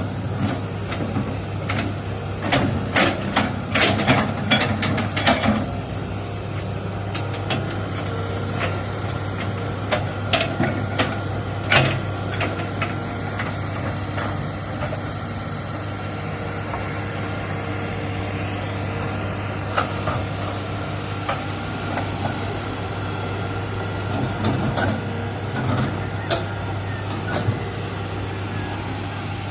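Hitachi excavator's diesel engine running steadily, with a quick cluster of sharp knocks a few seconds in and single knocks scattered through the rest.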